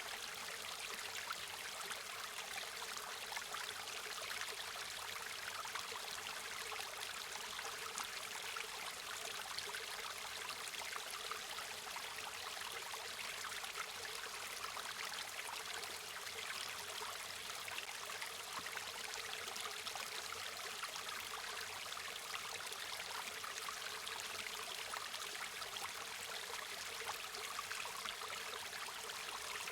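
River water flowing steadily over rocks, a constant rushing and trickling with no pauses.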